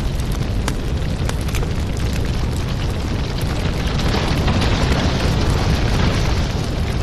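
Wood fire burning in a fireplace: a steady low rumble of flames with scattered sharp crackles and pops, swelling into a louder hiss about four seconds in.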